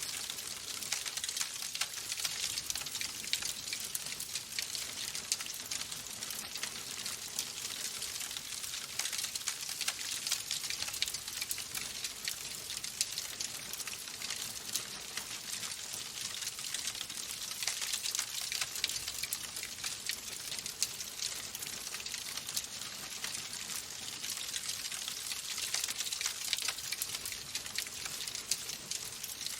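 Wood fire crackling in a fireplace: a dense, steady stream of small pops and snaps over a hiss.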